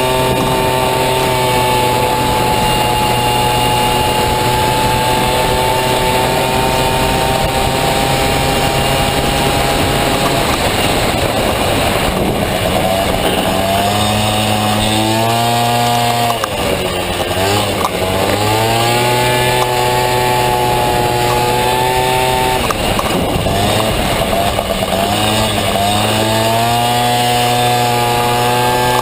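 Honda Dio 50cc two-stroke single-cylinder scooter engine in a racing Honda Motocompo, running hard at high revs. The revs sag slightly, then drop sharply about halfway through and again near the end as the throttle is closed, each time climbing back up.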